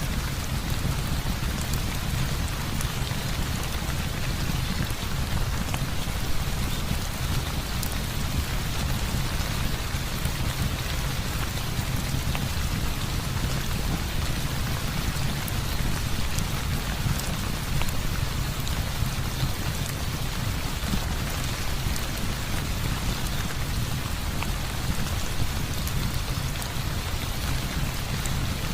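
Heavy rain falling steadily, an even hiss with a low rumble underneath and faint scattered clicks of drops.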